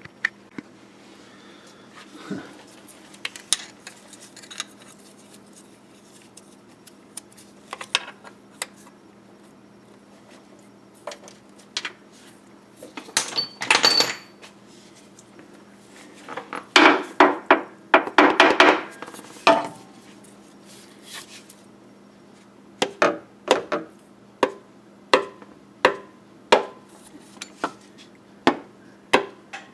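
Metal hammer strikes and clanks driving a new front crankshaft seal into the engine's front cover: scattered taps at first, a quick flurry of hard blows about two-thirds through, then evenly spaced taps near the end, with a faint steady hum underneath.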